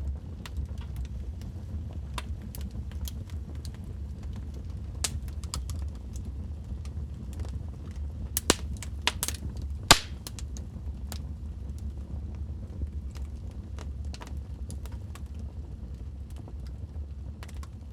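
Wood fire burning in a fireplace: a steady low roar of flames with scattered crackles and sharp pops from the burning logs, the loudest pops coming in a cluster about halfway through.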